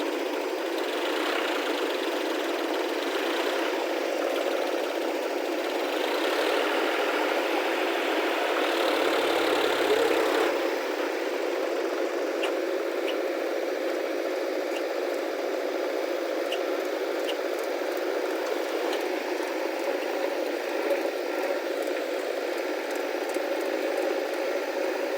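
Diesel engine of heavy machinery running steadily, its sound thinning a little about ten seconds in.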